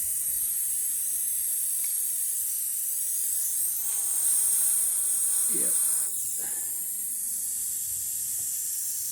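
Air hissing steadily out of a nail puncture in a pressurised truck tire's tread, louder for a couple of seconds in the middle and dropping back suddenly.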